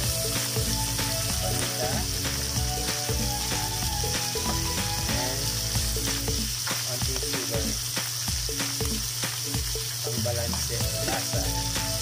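Green mussels on the half shell sizzling in hot margarine and garlic in a metal wok, with many short clicks of the spatula and shells as they are stirred. Background music plays underneath.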